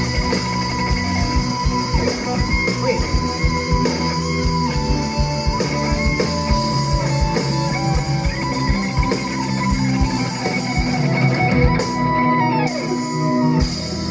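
Live rock band playing an instrumental passage: a lead guitar holds and bends long notes over a steady drum kit and bass.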